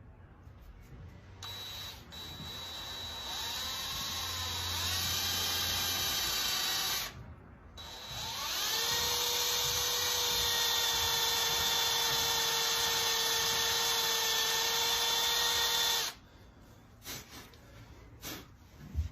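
Cordless drill with a small bit drilling a pilot hole into a stuck metal screw, ready for a screw extractor. The motor whines as it spins up, runs for about five seconds, stops briefly, then runs steadily for about eight seconds more. A few light knocks follow near the end.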